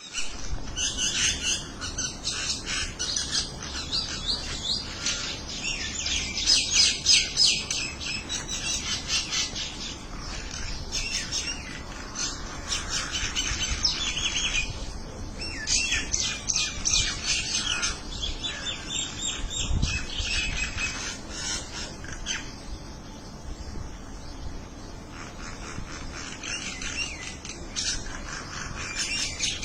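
A flock of small birds chirping together, many rapid calls overlapping in a dense, continuous chatter that swells and ebbs.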